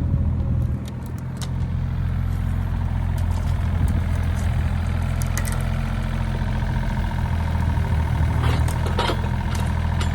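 An engine idling steadily with a low hum. A few light clicks and knocks come near the end.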